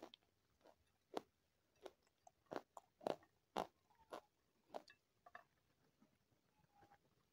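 Close-up eating sounds: a string of sharp, crisp crunches as a thin, brittle food is bitten and chewed, irregularly about half a second to a second apart, loudest around the middle and thinning out towards the end.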